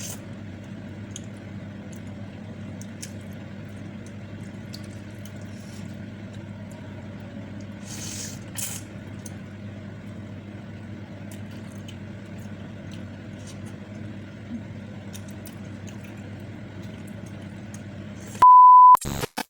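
Faint wet eating and slurping sounds over a steady low hum, with short hissy slurps about eight seconds in. Near the end comes a loud, pure electronic beep lasting under a second.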